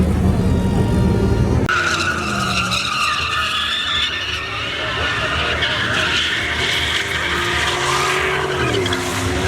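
Pickup truck doing a burnout: the engine is revving hard, then from about two seconds in the tyres squeal steadily as they spin against the pavement, over the engine held at high revs.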